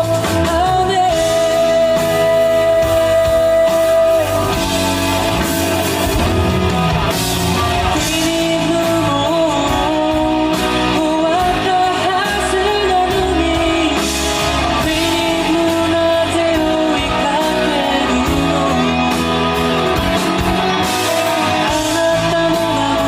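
A band playing a pop-rock ballad: a lead melody line over guitar, bass and drums. It opens with a long held note, then moves through bending phrases.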